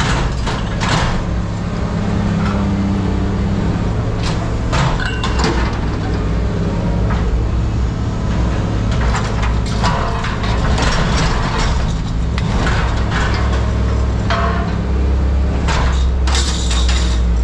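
A machine engine running steadily, with scattered knocks and clanks of scrap metal being handled and moved about.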